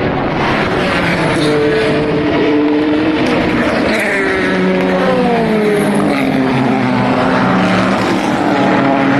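Several endurance racing cars passing at speed, their engine notes overlapping, with pitches sweeping down as the cars go by.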